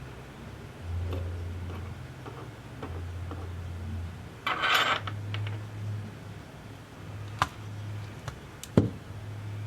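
Small clicks and taps of metal tools and parts being handled during tablet repair work, with a short scraping sound near the middle and sharp clicks in the later part. Under it is a low hum that switches on and off about every second.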